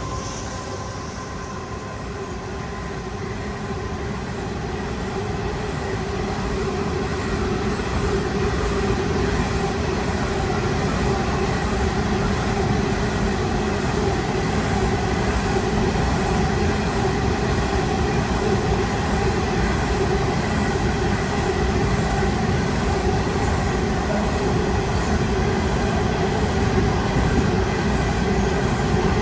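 Coal hopper wagons of a long freight train rolling past on the rails: a steady wheel-on-rail rolling noise that builds over the first several seconds and then holds, with a faint steady ringing tone through it.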